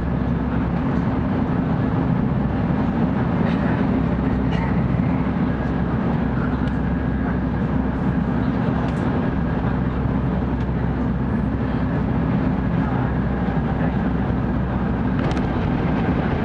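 Cabin noise inside a 700 series Shinkansen running at speed: a steady low rumble, with a few faint ticks.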